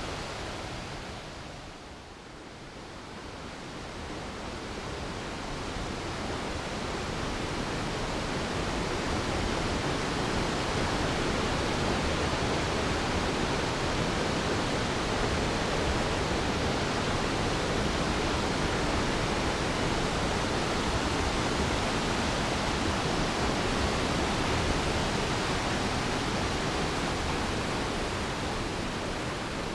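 Waterfall: a steady rush of falling water, dipping briefly about two seconds in, then building back over several seconds to a loud, even roar.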